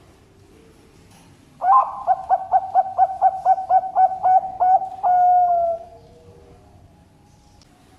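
Zebra dove (perkutut) cooing its song: a quick run of about a dozen short, evenly spaced coos, about four a second, ending in one longer drawn-out note that falls away slightly.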